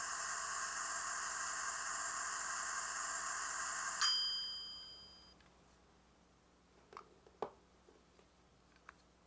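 Miniature capsule-toy microwave playing its built-in running sound, a steady electronic hum, which stops about four seconds in with a ringing ding that marks the end of the heating cycle. A few light clicks follow near the end.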